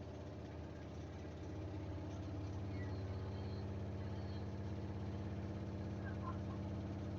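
Samsung washing machine in its final spin with a load of bedding and blankets: a steady drum-and-motor hum with a fast, even pulse, growing slightly louder about one and a half seconds in.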